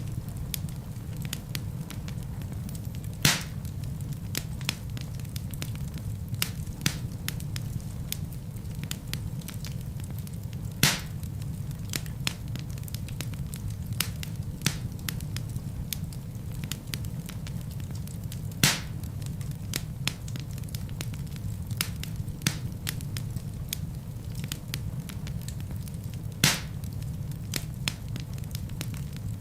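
Wood fire burning in a fireplace: a steady low rumble of flames with constant fine crackling from the burning logs, and four louder sharp pops spread evenly through the stretch.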